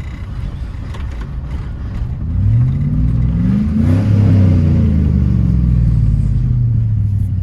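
Muffler-deleted 5.3 L V8 of a 2000 Chevrolet Silverado accelerating hard. About two seconds in the exhaust gets louder and the engine note climbs, then it levels off and keeps running loud.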